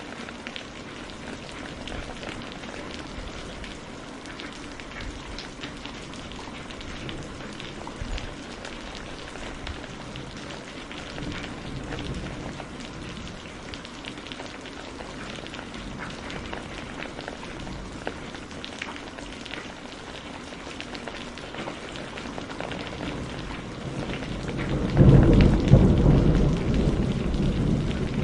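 Steady rain falling, with scattered ticks of single drops. Near the end a loud, low rumble of thunder breaks in.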